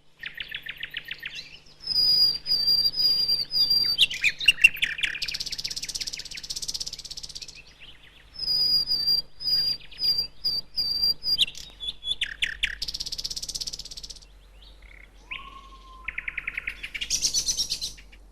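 Male common nightingale singing its territorial song in separate varied phrases with short pauses between. The phrases include rapid stuttering trills, runs of loud repeated whistled notes, harsh buzzy passages, a slow rising whistle near the end and a quick rattle of clicks.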